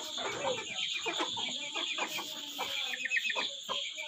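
Aseel chickens clucking in short, irregular calls over a steady high-pitched background noise.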